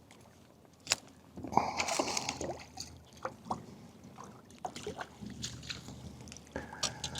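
Small trout, just under ten inches, splashing and sloshing at the water's surface as it is reeled in to the shore. Scattered sharp clicks and taps come through as it is handled, the first about a second in.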